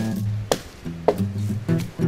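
Acoustic guitar music with strummed chords about twice a second.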